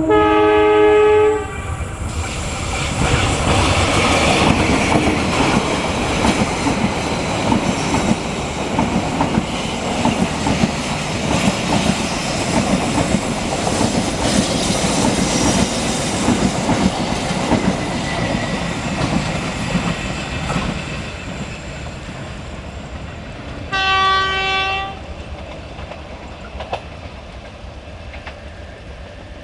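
A train passing close by: a loud locomotive horn blast at the start, then the rolling clatter of wheels on the rails for about twenty seconds, slowly fading. A second, shorter horn blast comes near the end.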